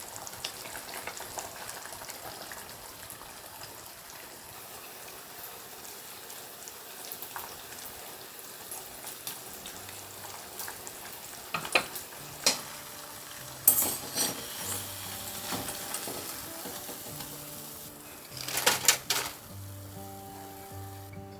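Food sizzling in a pan, a steady hiss, with a metal utensil clinking and scraping against the pan a few times in the second half, loudest near the end.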